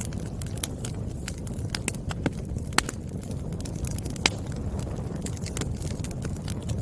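Wood fire crackling: a steady low rumble of burning with frequent sharp snaps and pops of the firewood. The loudest pops come a little past two seconds in, near three seconds and just past four seconds.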